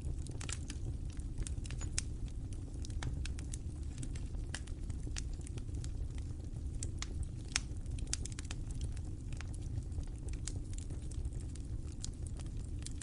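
Wood fire in a fireplace crackling: many sharp, irregular pops and snaps over a steady low rumble of the burning fire.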